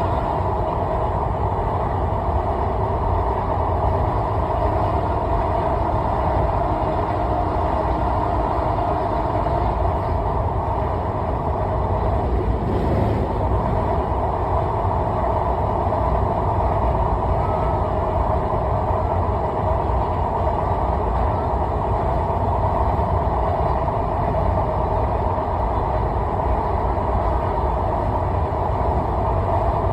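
Steady running noise of a vehicle in motion, a constant rumble with no change in level throughout.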